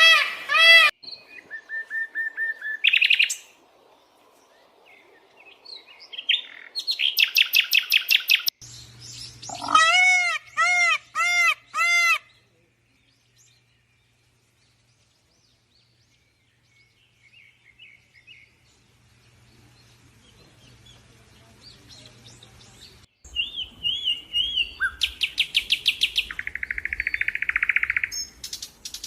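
Calls and chirps of several different birds in turn: quick runs of repeated chirps, a slower series of six clear arched notes, and a buzzy trill near the end. The middle stretch is quiet, with a faint low hum.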